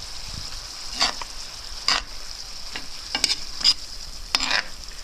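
Chopped carrot, beetroot and onion with tomato paste and vinegar sizzling steadily in a frying pan, stirred with a utensil that scrapes the pan in about half a dozen irregular strokes.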